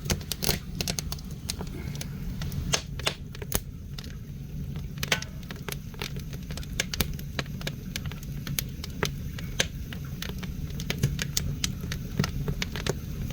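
Wood fire in an ondol room's firebox, crackling with irregular sharp pops over a steady low rumble as the draft draws the flames into the underfloor flues.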